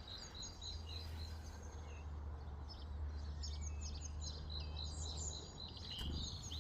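A small bird calling in quick series of short, high chirps, about four or five a second: one run at the start and a longer one from about halfway in, over a steady low background hum.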